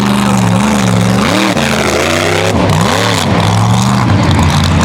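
Mega truck engine running loud, its pitch rising and falling twice as the throttle is worked, over a steady engine drone.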